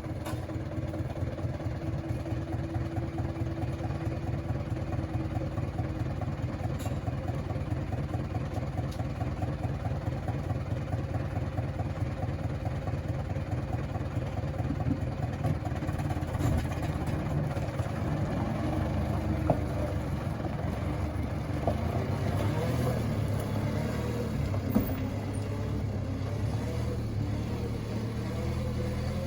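Loaded sand truck's engine running steadily as it pulls away slowly, with a fast even firing pulse. In the last third the engine note rises and shifts as it gathers speed.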